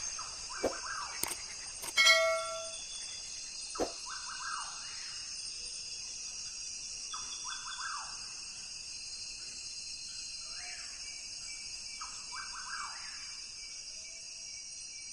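Rainforest ambience: a steady, high-pitched insect chorus with short animal calls repeating every two to three seconds, and a few sharp clicks in the first few seconds.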